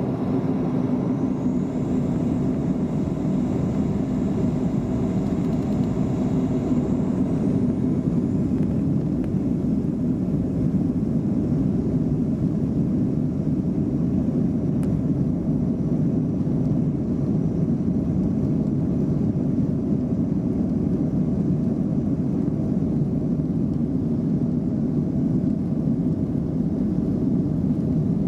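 Airliner taking off, its engine and airflow noise a steady loud rumble as heard from inside the cabin, with a faint high whine that rises over the first few seconds.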